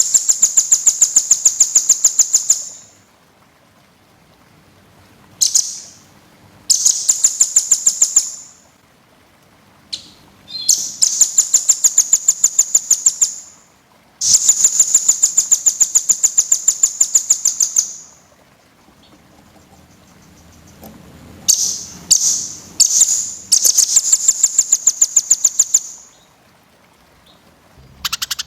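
Small songbird singing rapid, dense, high-pitched trills in bursts of up to about four seconds, each made of many fast repeated notes, with short pauses between bursts.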